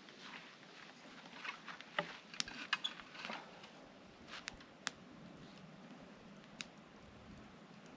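A series of irregular small clicks and taps, clustered in the first half with a single one later, over a faint steady hiss.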